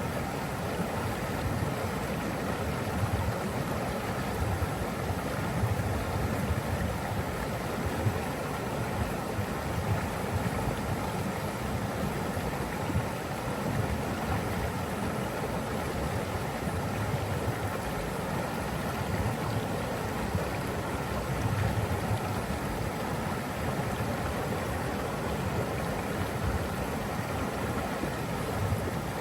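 Steady rush of flowing water, with a low uneven rumble beneath it.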